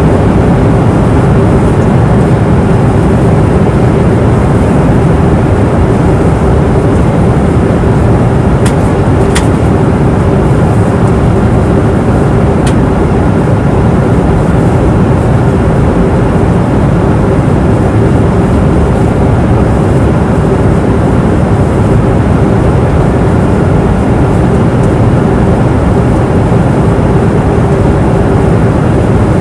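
Airplane cabin noise in flight: a steady rush of air and engine noise, strongest in the low end, with a constant hum tone through it. A few faint clicks come about 9 and 13 seconds in.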